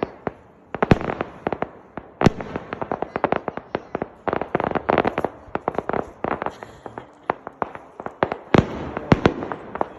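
Fireworks popping and crackling in a rapid, irregular string of sharp cracks, with a few louder bangs about a second in, a little after two seconds, and near the end.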